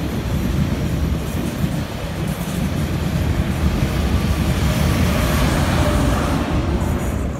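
TGV Duplex double-deck high-speed train running past, a steady low rumble of wheels on the rails, a little louder as the rear power car goes by near the end.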